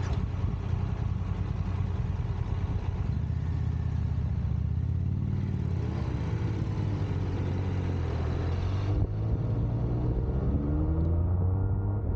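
Motorcycle engine running under way, its pitch rising and falling as it revs through the gears, with a steady low rumble and wind noise.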